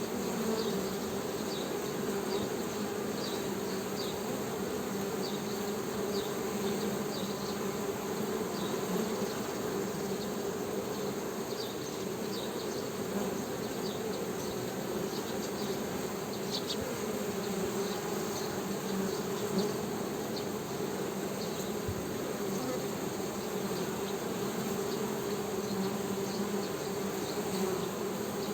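Honey bees humming: a steady, even buzz. Faint short high chirps are scattered through it.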